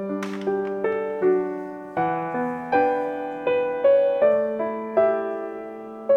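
Soft background piano music: gentle chords and melody notes struck about every three-quarters of a second, each ringing and fading.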